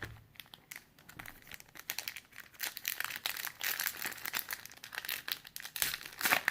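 Plastic wrapper of a Panini Prizm trading-card pack crinkling as it is handled and opened: a rapid, irregular crackling that grows louder toward the end.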